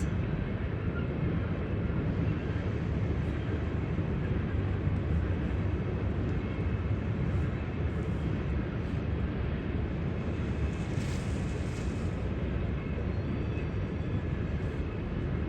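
CSX coal train rolling past, a steady low rumble of the cars on the rails.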